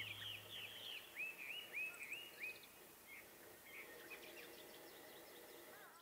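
Birds calling, a quick run of short slurred whistles at about three a second: falling notes at first, then rising ones from about a second in, growing fainter towards the end. The last low tone of background music fades out within the first second.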